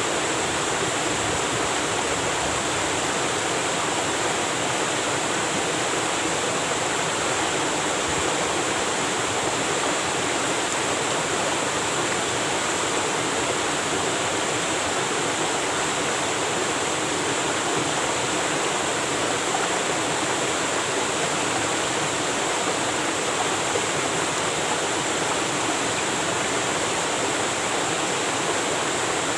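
Waterfall: water falling and splashing in a steady, unbroken rush with no changes.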